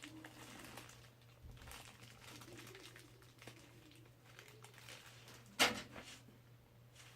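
Faint handling noises over a steady low electrical hum, with one sharp knock or clatter about five and a half seconds in.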